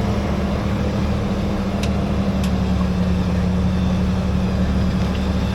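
Off-road rock crawler's engine running steadily at low revs, a constant low drone.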